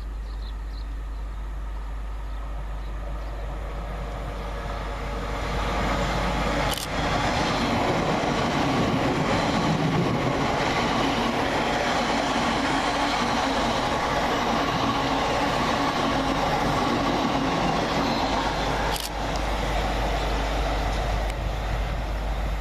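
Class 345 electric multiple unit running empty through the station without stopping: a steady rush of wheels on rail and traction noise. It grows as the train approaches, is loudest for about twelve seconds in the middle, then fades.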